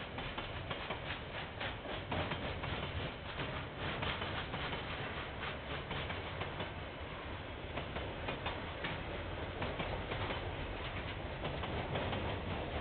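KiwiRail train going past, its wheels clicking steadily over the rails with a low rumble underneath.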